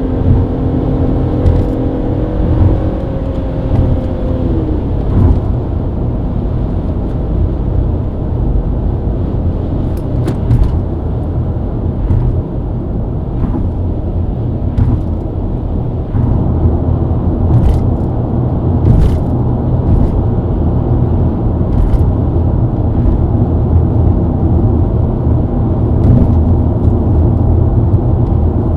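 BMW E90 323i's inline-six engine running at highway speed, with steady tyre and road rumble. The engine note drops about four seconds in, then runs steadier and louder from about halfway, with a few short ticks along the way.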